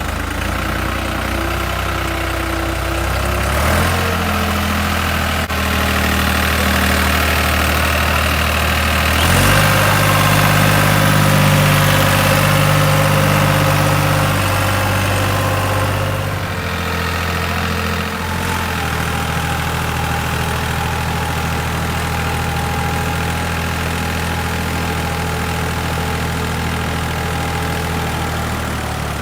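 Tractor engine running steadily, its speed stepping up about four and nine seconds in and dropping back down about sixteen seconds in.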